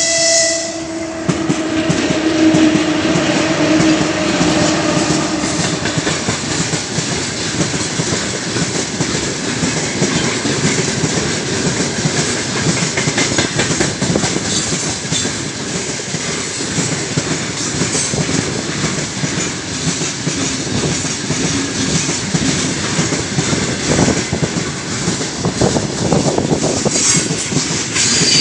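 A heavy freight train of open gondola wagons hauled by a 3ES5K Ermak electric locomotive rolls past close by, its wheels keeping up a steady clickety-clack over the rail joints. A locomotive horn blast cuts off about half a second in.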